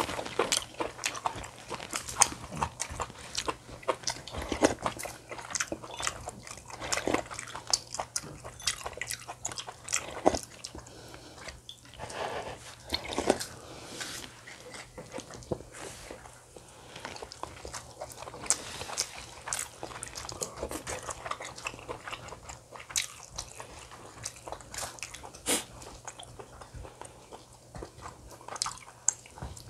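Close-miked eating sounds: food being bitten and chewed in irregular, crunchy, clicking mouthfuls. A faint steady low hum runs underneath.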